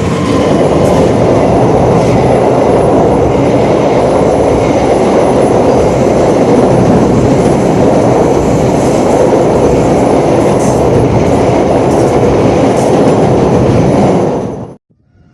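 A train passing close by, a loud steady rush and rumble of wheels on the rails, cut off abruptly about a second before the end.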